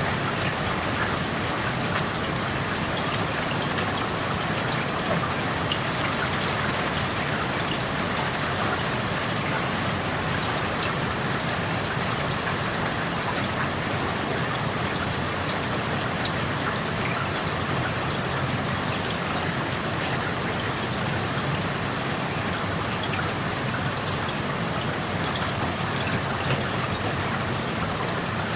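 Steady rain falling, heard through an open window, with many small drops pattering and ticking on surfaces.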